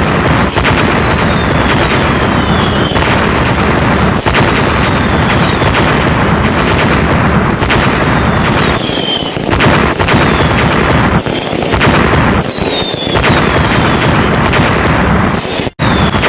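Loud, steady rush of river water close to the microphone, with short high falling whistles recurring over it; the sound drops out for an instant near the end.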